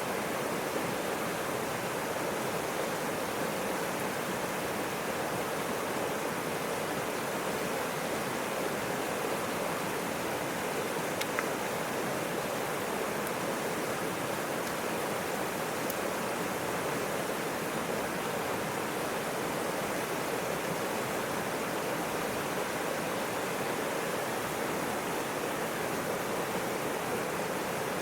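Mountain river flowing, a steady rushing of water, with one faint click about eleven seconds in.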